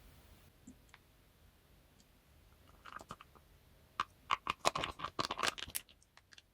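Small scrapes and clicks of a cup and plastic bottle being handled as coloured glue is put into the bottle, in a close run of sounds starting about three seconds in.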